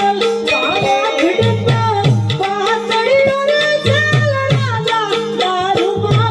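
Devotional song: a voice singing a wavering melody over tabla drumming, whose low bass-drum strokes slide down in pitch in repeated groups.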